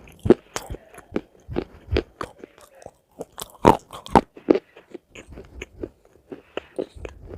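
A person biting and chewing crunchy food: an irregular run of sharp crunches, several a second, the loudest a few seconds in.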